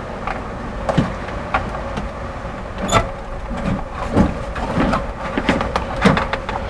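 Scattered light clicks and knocks, as of tools and parts being handled, over a steady low hum.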